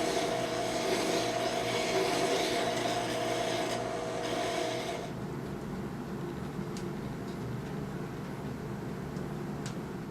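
Steel file rasping on the turned-down end of a soft iron rod, working the shoulder of a mandrel smooth. A steady hum runs under the filing and stops about halfway through, leaving quieter scraping.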